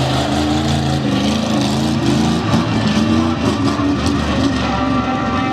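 Monster truck engine running, its pitch rising about a second in and turning rougher a couple of seconds in as the truck moves off.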